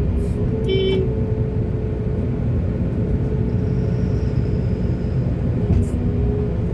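Heavy diesel construction machinery, excavator or loading trucks, running with a steady low rumble and a held engine tone. A brief high-pitched squeal comes about a second in.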